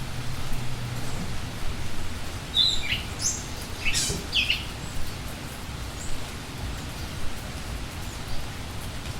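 Steady rain hissing, with a few quick high bird chirps about a third of the way in and a faint one later.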